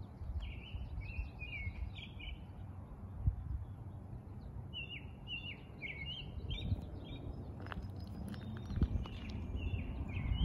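Songbirds chirping and singing in short repeated phrases over a steady low rumble, with a few soft thumps.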